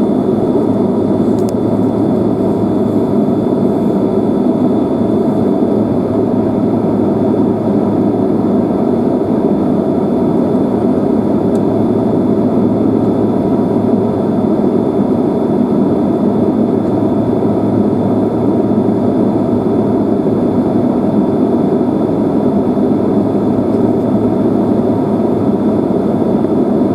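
Steady jet engine and air noise heard inside the passenger cabin of a Boeing 767-300ER, with a low hum and a faint high whine running alongside it. The level stays even throughout, with no sign of the rising thrust of a takeoff roll.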